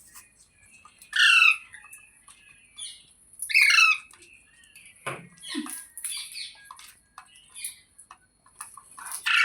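Parrot squawking: two loud harsh screeches about a second and three and a half seconds in, then softer, shorter calls and chatter, and another loud screech near the end.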